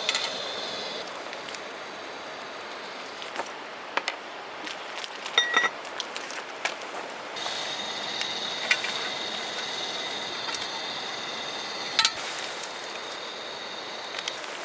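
A few light clinks of tableware or cookware, one with a brief ring, over a steady hiss.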